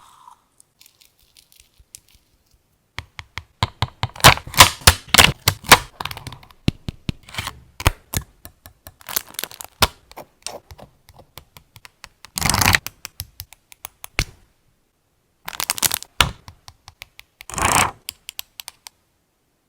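Paper-crafting handling sounds at a desk: after a quiet start, a dense run of quick clicks and taps of paper and tools, then three short bursts of paper noise, each about half a second long, with scattered clicks between them.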